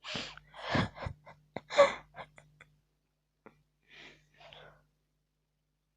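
A person's breathy gasps and exhalations: several sharp bursts of breath in the first two seconds, the loudest near two seconds, then two faint ones around four seconds.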